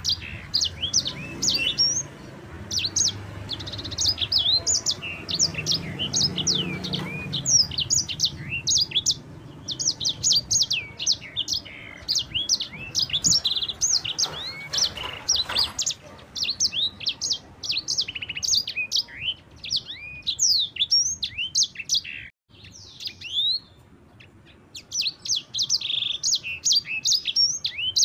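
Sanger cage songbird singing a fast, continuous rolling song of quick high chirps and sweeping whistled notes, breaking off briefly about 22 seconds in before starting again.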